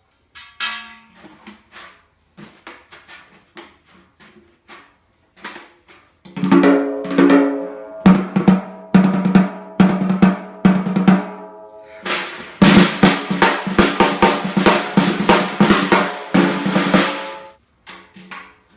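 A freshly restored CB700 snare drum with new heads being played: a few light taps, then a roll about six seconds in, and a louder, brighter roll from about twelve to seventeen seconds.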